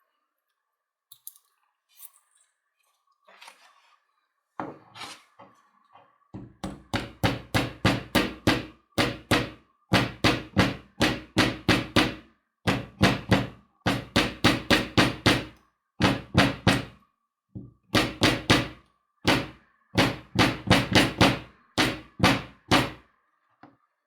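Rapid light hammer taps driving slot wedges into a rewound drill-motor armature, in runs of about four to five blows a second with short pauses between, after a few faint clicks at the start.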